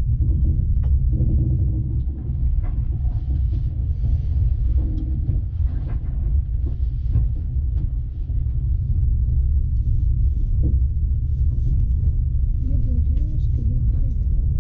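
Steady low rumble of a moving passenger train heard from on board, with scattered small clicks and faint, indistinct voices.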